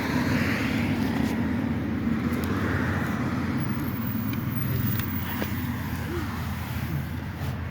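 Cars passing on a nearby road, their tyre noise swelling and fading twice over a steady low rumble.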